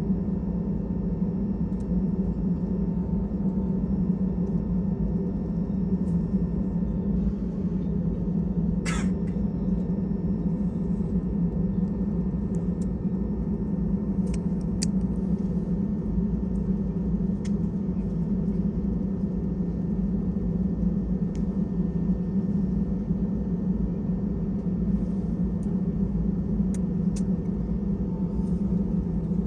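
Steady low rumble of an Airbus A320 cabin, with faint steady tones above it and a few short clicks, the sharpest about nine seconds in.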